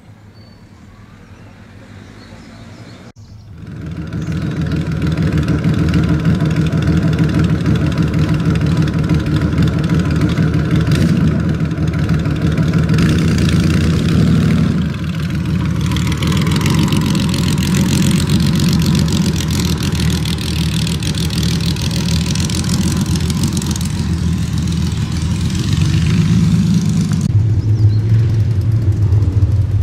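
Large touring motorcycle engine running, coming in abruptly about three seconds in and staying loud and steady as the bike rolls slowly; near the end it gives way to a lower, steady engine tone.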